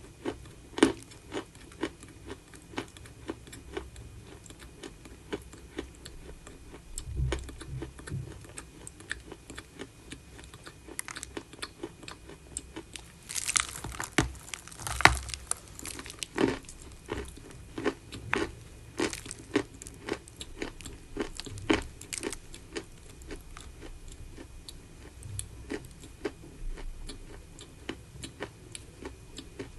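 Chalk being bitten and chewed: an irregular run of sharp crunches, with a louder cluster of bites about halfway through.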